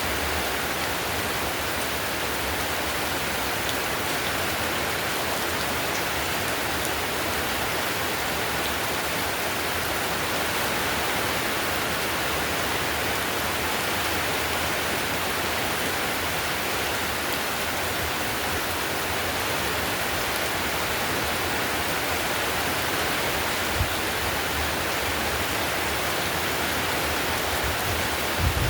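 Heavy rain falling steadily on a clay-tiled roof, an even dense patter. A single soft low thump comes near the end.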